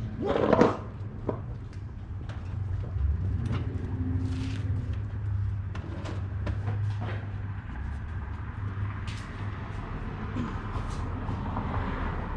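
Scattered knocks, clunks and scrapes of items and bricks being handled and set down, with one louder clatter about half a second in, over a steady low hum.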